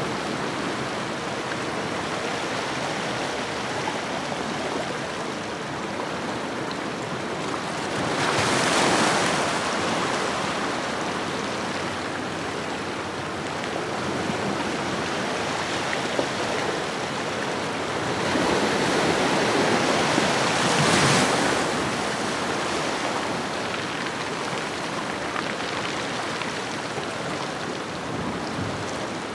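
Ocean waves washing onto a shoreline: a steady wash of surf with two larger waves swelling and breaking, one about eight seconds in and another around twenty seconds in.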